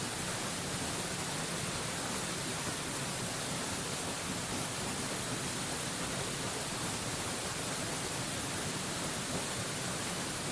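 Waterfall rushing: a steady, even hiss of falling water with no changes or separate splashes.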